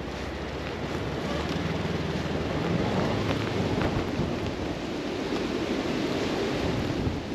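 Polaris Ranger Northstar side-by-side's engine running as it drives through deep snow, under heavy wind noise on the microphone. The engine grows somewhat louder over the first few seconds.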